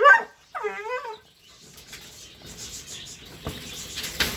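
A dog giving two short, high-pitched barks within the first second, then low rustling with a couple of faint knocks.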